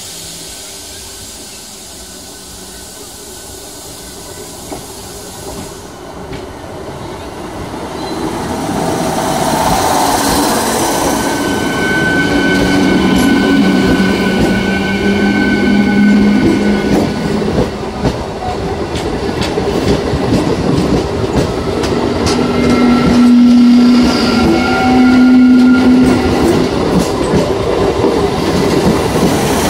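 Indian Railways EMU electric local train approaching and then passing close by, growing loud from about eight seconds in. Its wheels clatter over the rail joints as the coaches go by, with steady pitched whines in two stretches.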